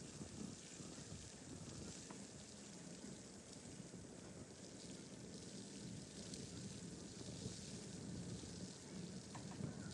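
Steady hiss of a snowstorm: wind-driven snow or sleet falling, with a low rumble underneath and a few faint ticks.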